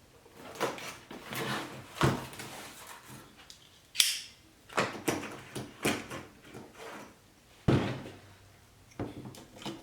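Clicks and knocks of a cordless 15 gauge finish nailer being handled while a strip of 2.5-inch nails is loaded into its magazine, with a sharp snap about four seconds in.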